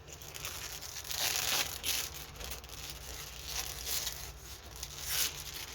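Crinkly plastic packaging being handled, in irregular bursts of rustling and crinkling.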